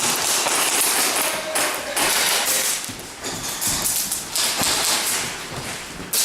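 Footsteps with rustling handling noise from a handheld camcorder being carried, a dense hiss broken by a few short dips.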